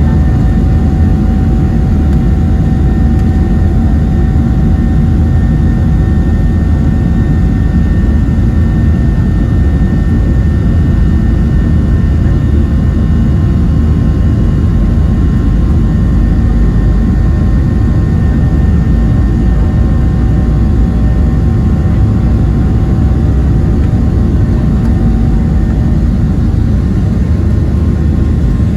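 Boeing 737-700's CFM56-7B turbofan engines heard from inside the passenger cabin, running loud and steady: a heavy rumble with a few steady whining tones above it.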